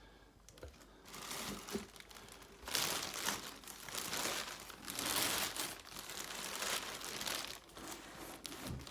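Packaging crinkling and rustling as it is handled, starting about a second in and loudest from about three seconds until near the end.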